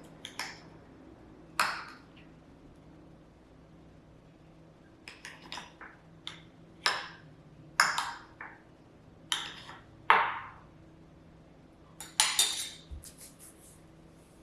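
A series of sharp clinks and knocks of hard objects being handled, some ringing briefly, over a faint steady hum.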